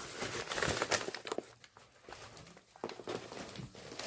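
Objects being handled at close range: a scatter of small clicks and knocks with some rustling, busier in the first second and a half, quieter in the middle, and picking up again near the end.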